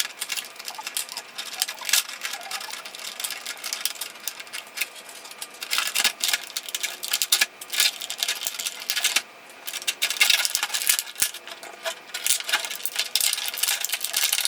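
Toy packaging being opened and handled: cardboard box and plastic packing crinkling, rustling and clicking in quick irregular bursts as an action figure and its pieces are taken out.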